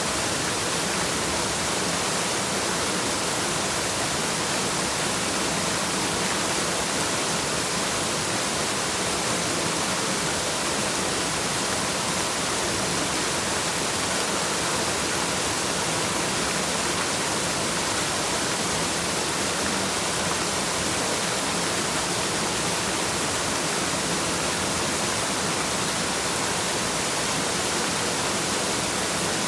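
Waterfall: a steady, unchanging rush of falling water, mostly a bright hiss.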